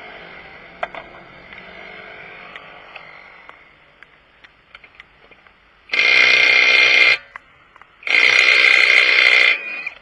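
Impact wrench hammering on 21 mm wheel lug nuts in two loud bursts, each a second or so long, about a second apart, starting about six seconds in.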